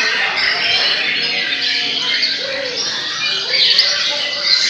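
Several murai batu (white-rumped shamas) singing at once in a contest, a dense, unbroken tangle of overlapping whistled phrases, trills and chatter.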